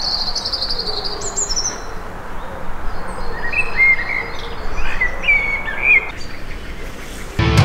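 Songbirds singing outdoors: a fast, high trill in the first two seconds, then a run of shorter chirps in the middle, over a steady background hiss and rumble. Music starts abruptly near the end.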